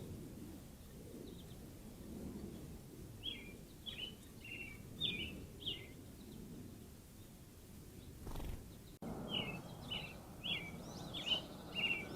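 A songbird singing two runs of short, clear, descending notes, the second run after a sudden break about nine seconds in, over a steady low outdoor background rumble.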